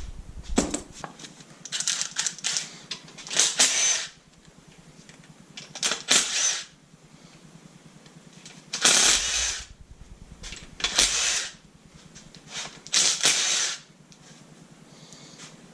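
A power tool running in short bursts of about half a second to a second, about seven times, backing bolts out of an LS V8 engine during teardown.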